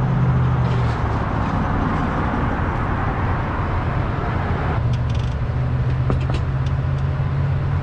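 Car engine idling with a steady low hum, with a few faint clicks about six seconds in.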